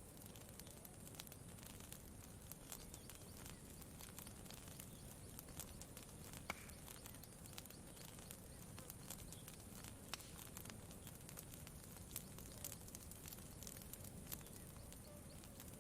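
Campfire crackling faintly, with irregular small pops and one sharper pop about six and a half seconds in, over a low steady hiss.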